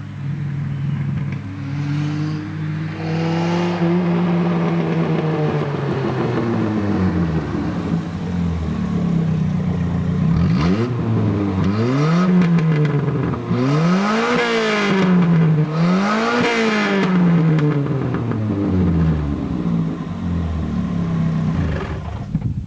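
A 1983 Toyota Tercel's four-cylinder engine running loud through a broken exhaust pipe, revved repeatedly. One slow rev rises and falls early on, then a few quick blips come around the middle, and it settles back to a steady idle for the last few seconds.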